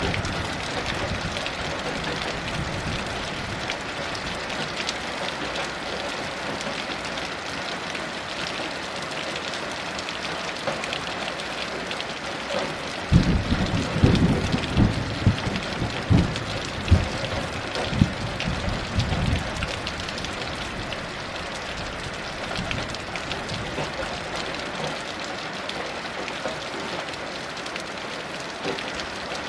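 Heavy rain falling steadily. About halfway through, a clap of thunder breaks in suddenly and rumbles in several pulses for about six seconds before dying back under the rain.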